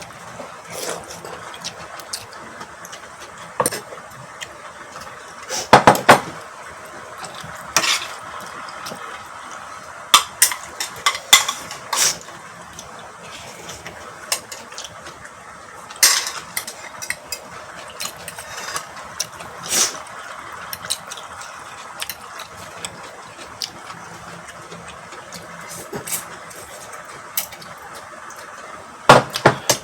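Utensils clinking and knocking against bowls and plates during a meal, in scattered short clicks with a few louder clusters about six seconds in and near the end.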